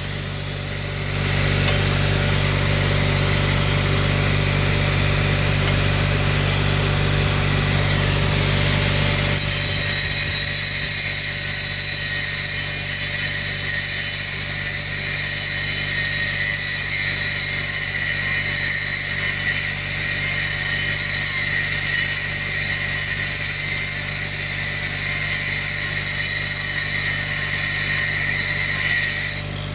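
A handheld power tool running steadily under load, its sound changing about ten seconds in, over a steady low hum.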